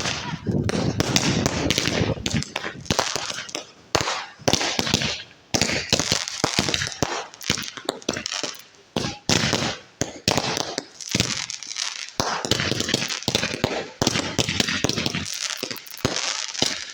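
Firework cake (barrage box) firing a rapid run of bangs and crackles, in a series of dense volleys separated by brief gaps.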